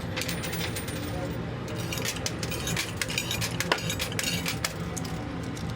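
Quarters clinking and clattering in a coin pusher machine, a rapid scatter of small metallic clicks over a steady low machine hum.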